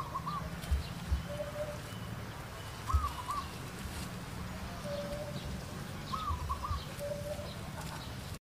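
A bird calling over and over in the background: a short flat note and then a quick double rise-and-fall whistle, repeating about every three seconds.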